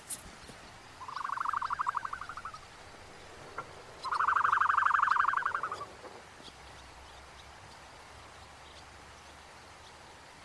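An animal gives two rapid trilled calls, each a quick run of pulses, the second longer and louder.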